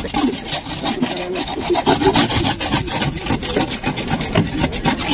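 Rapid, irregular scraping strokes, a boat hull being scraped clean by hand.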